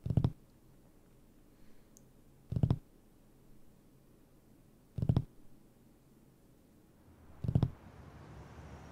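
Four evenly spaced thuds, each a quick cluster of knocks, about every two and a half seconds, in a horror film's soundtrack. Near the end a faint steady background hiss rises under them.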